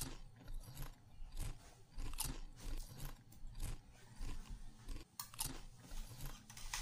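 A person chewing a mouthful of chocolate moron, a soft steamed sticky-rice cake, close to the microphone: a run of short, uneven chewing clicks.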